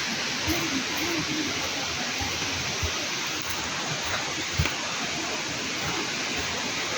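Steady rushing of running water, like a forest stream, with a few soft low thumps.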